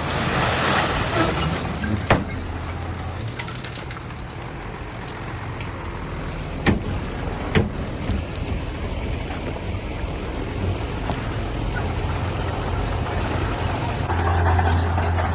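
Heavy diesel earthmoving machinery running steadily, with a hiss at the start and three sharp metallic clanks, one about two seconds in and two close together near the middle. The engine grows louder near the end.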